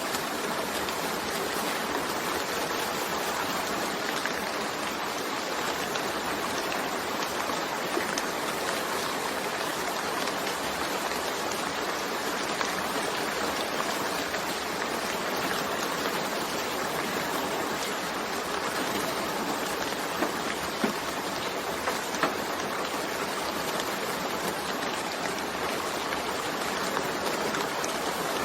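Steady rain falling, a dense even patter with an occasional louder drop.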